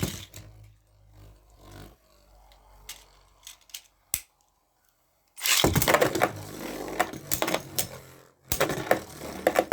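Beyblade Burst spinning tops in a plastic stadium: a faint fading spin and a single sharp click, then a sudden loud clatter of rapid hits and scraping as the tops spin and clash.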